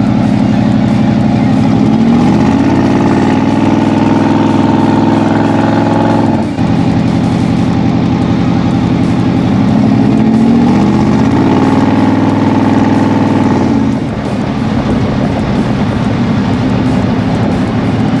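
1972 Chevy C20 pickup's engine revving up under acceleration: it climbs in pitch and holds, drops sharply about six and a half seconds in, then climbs and holds again before easing off about fourteen seconds in.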